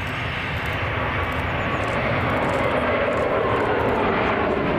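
Jet airliner's engines running as the aircraft passes, a dense noise that grows louder about two seconds in.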